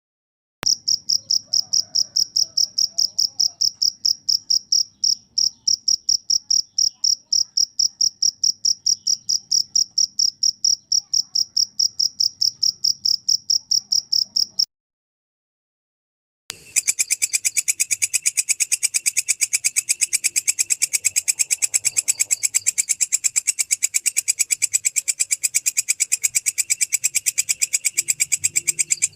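Cricket chirping in evenly spaced pulses on one high pitch, about four a second; it cuts off about 15 seconds in. After a two-second gap, a second insect, a belalang kecek katydid, calls in a faster, harsher run of pulses spread over a wider range of pitch.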